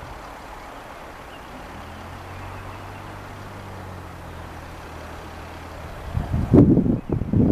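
Light aircraft's piston engine droning steadily with a low hum. Near the end, loud gusts of wind buffet the microphone.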